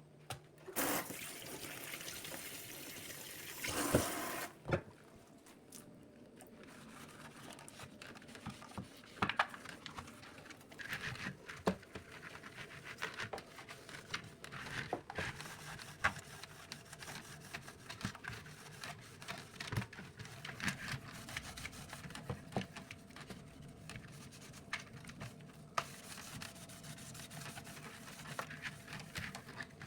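Water running for about four seconds, then scattered knocks, clicks and rubbing as household items are handled during cleaning.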